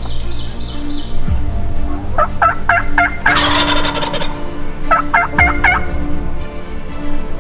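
Wild turkey gobbler gobbling twice: a quick, rattling string of notes about two seconds in, and another about five seconds in.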